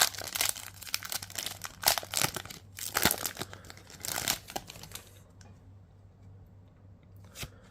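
Foil booster pack wrapper of trading cards being torn open and crinkled for about five seconds. After that it goes quieter, with a few faint clicks.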